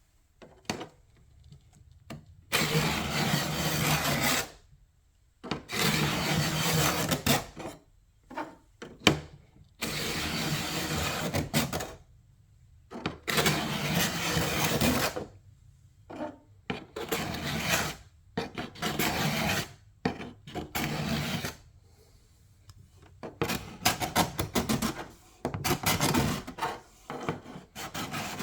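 Hand sanding and scraping strokes stripping old paint and finish off a surface. The strokes are long, about two seconds each, with short pauses between them, and they turn into a run of quicker, shorter strokes near the end.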